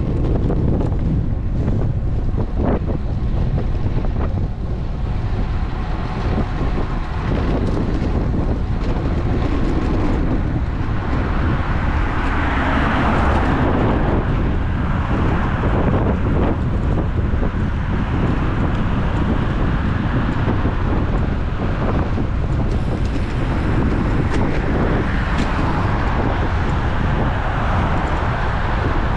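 Wind buffeting the microphone of a GoPro Hero 11 on a moving road bike, a steady low rumble throughout. It is joined by a rushing noise that swells around the middle and again near the end, with a few sharp clicks in the first several seconds.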